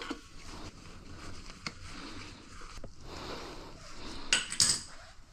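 Light metallic clinks and knocks of objects being handled, scattered and irregular, with two sharper knocks near the end.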